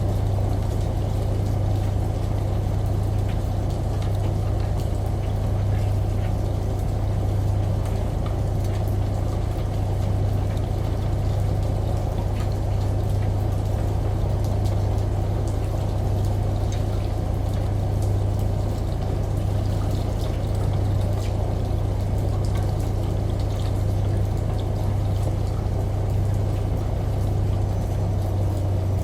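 Washing machine running with water in the drum: a steady low hum over an even churning water noise, with faint light ticks.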